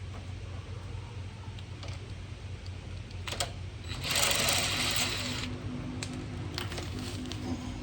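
Clicks and clanks of hand tools at work over a steady low hum, with a hiss lasting about a second and a half near the middle.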